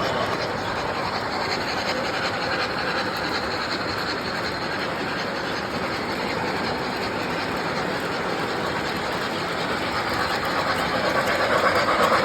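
Model train running on track: a steady rolling noise of wheels on rails that grows louder near the end.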